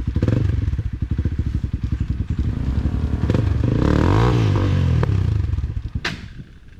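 Motorcycle engine labouring up a rough trail climb, pulsing under load and revving up and back down around four seconds in. There is a sharp click near the end, and the engine sound then drops away.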